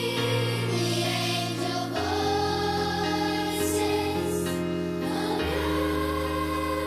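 A children's choir singing a slow Christmas carol in long held notes over accompaniment, the chords changing twice.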